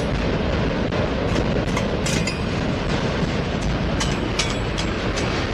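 Freight train of enclosed autorack cars rolling past close by: a steady rumble of steel wheels on rail, with sharp irregular clacks and clicks as the wheels cross rail joints.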